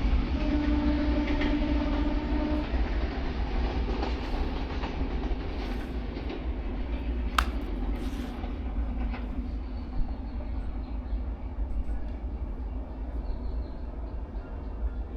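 Passing train: a steady rumble and rattle of the wagons on the track that slowly fades. A steady tone sounds for about two seconds near the start, and there is a single sharp click about halfway through.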